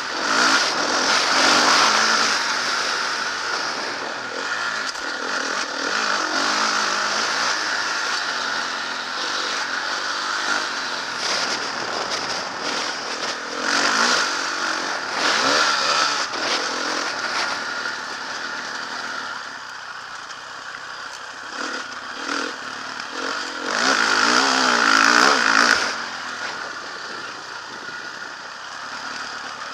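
Motocross bike engine riding a dirt track, revving up and down through repeated throttle openings, loudest about a second in, around halfway and again a few seconds before the end.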